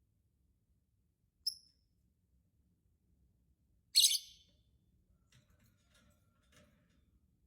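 Lovebird chirping: a brief high chirp about one and a half seconds in and a louder, short chirp about four seconds in, followed by a few faint clicks.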